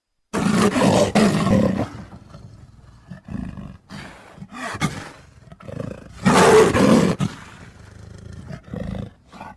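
Big-cat vocalisations from leopard and cheetah recordings: a loud roar near the start and another about six seconds in, with quieter, shorter calls between.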